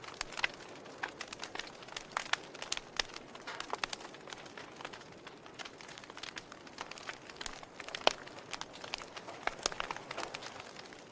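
Fire crackling, with irregular sharp pops over a soft steady rush; one louder pop about eight seconds in.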